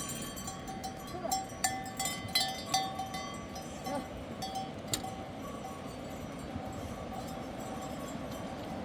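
Bells on grazing livestock clinking and ringing in short, irregular strikes, thinning out about halfway through.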